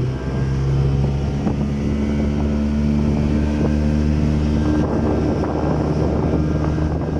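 Speedboat engine running as the boat gets under way again, its pitch climbing in steps over the first few seconds, with wind buffeting the microphone.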